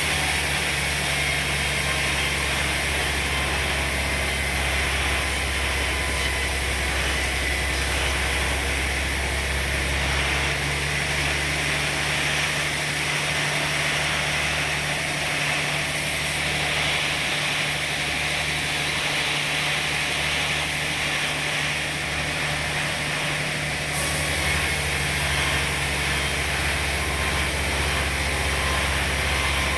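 Sawmill machinery running: a steady engine hum under a continuous whirring saw noise. The low hum changes pitch twice, about a third of the way through and again later.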